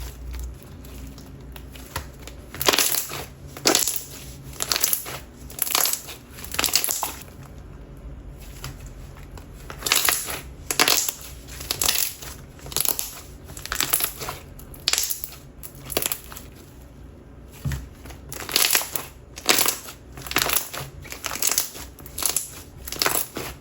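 Clear gummy slime being worked by hand, letting out repeated squelchy bubble pops, roughly one a second, with a couple of short pauses.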